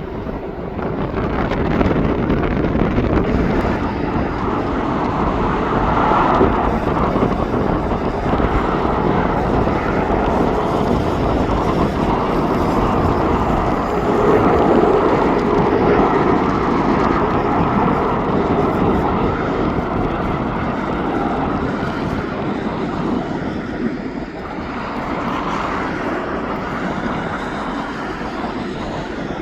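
Jet airliner's engines running loudly as it passes, a continuous broad rush that swells about six seconds in and again around the middle, then eases slightly.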